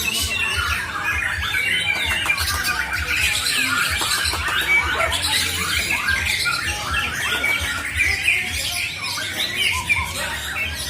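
Several songbirds singing at once, including a white-rumped shama (Borneo murai batu): a dense, unbroken tangle of overlapping whistles, chirps and chattering trills.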